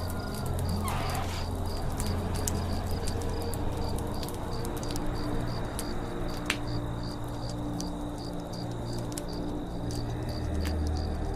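Campfire crackling with scattered sharp pops, one louder pop about six and a half seconds in, over a forest ambience with a high chirp repeating about two or three times a second and a low steady hum. A short falling bird call comes about a second in.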